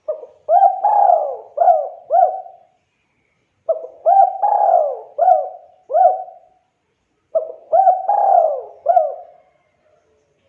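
Spotted dove (tekukur) singing its cooing song three times, each phrase a run of about five rolling coos with short pauses between phrases.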